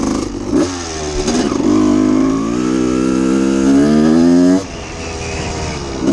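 A 1989 Honda CR250's two-stroke single-cylinder engine being revved while warming up. It gives two quick throttle blips, then a held rev that climbs slowly in pitch for about three seconds before dropping back to idle.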